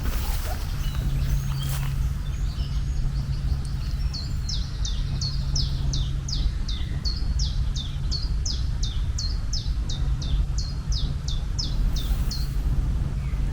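A bird singing a long run of short, high, downward-sliding notes, about two a second, starting faint and building about four seconds in. Underneath is a steady low hum and rumble.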